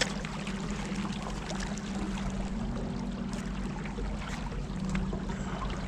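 Boat motor running steadily, with water rushing and splashing against the hull.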